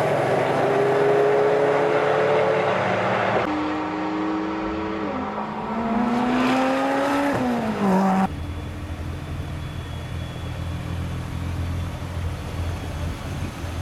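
Track-day cars' engines at speed. First comes a strong engine note that falls slowly. A few seconds in, an engine note climbs steadily under acceleration and then drops sharply about eight seconds in, as the throttle is lifted. This gives way to a low, steady engine drone.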